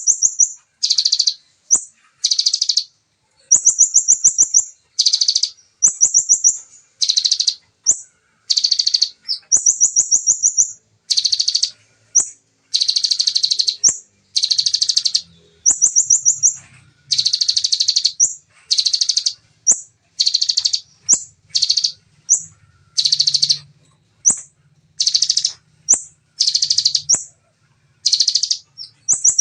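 A konin songbird singing ciblek-style rapid-fire trills: a nonstop run of short, high, very fast buzzy phrases, each under a second, with brief gaps between.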